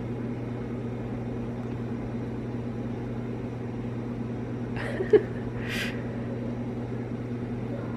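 A steady low machine hum, like a household appliance or air conditioner running, with a short click about five seconds in and a brief hiss just after.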